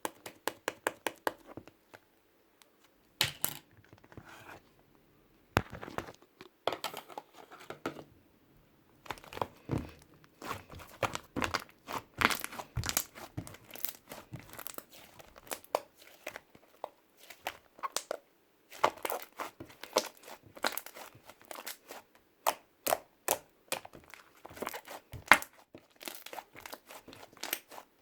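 Thick, cement-like slime being squished and poked by hand: runs of sharp crackling clicks and pops with short pauses between handfuls.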